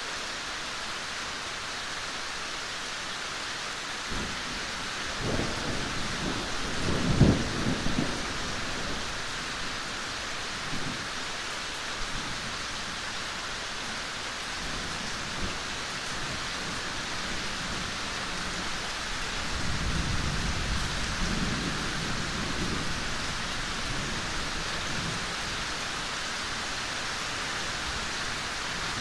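Steady rain falling, with thunder rumbling: one roll builds from about four seconds in to a loud, sharp peak near seven seconds, and a longer, softer rumble comes around twenty seconds.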